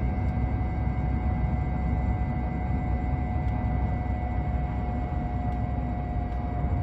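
Ford Explorer driving, heard from inside: a heavy low rumble with a steady, thin whine that holds one pitch throughout.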